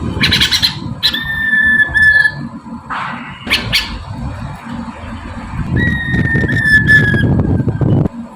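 Poksay mandarin (laughingthrush) singing: two long, level whistled notes, the second falling slightly, between short harsh squawking bursts, over a steady low rumble.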